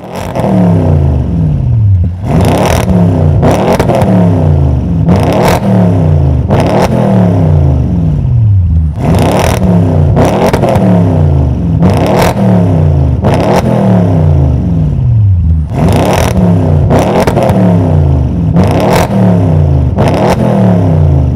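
Audi RS7's twin-turbo 4.0 V8 through an APR cat-back exhaust, revved repeatedly in short blips. Each blip is followed by the revs falling back, and they come in groups of two or three.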